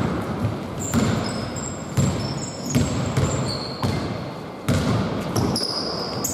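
Basketball bouncing on an indoor court, a sharp bounce about once a second, with short high sneaker squeaks between the bounces.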